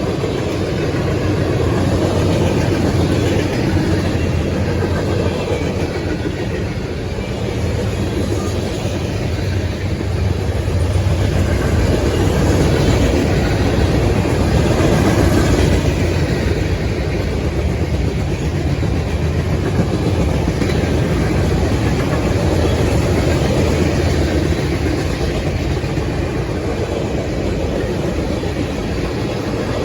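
Freight cars of a CSX manifest train rolling past: a steady, loud rumble of steel wheels on rail with clickety-clack over the rail joints.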